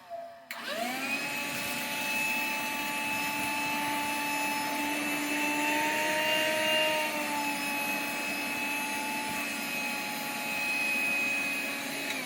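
Black & Decker Dustbuster handheld vacuum switched on about half a second in, its motor spinning up to a steady high whine as it picks up the mess. The pitch rises a little midway, and it is switched off right at the end, the whine falling away.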